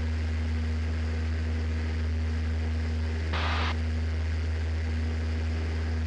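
Cessna 172's piston engine and propeller droning steadily in flight, heard inside the cockpit, with a brief hiss a little past halfway through.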